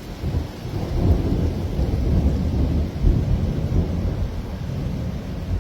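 Strong wind gusting across a phone's microphone: a loud, uneven low rumble with no voices.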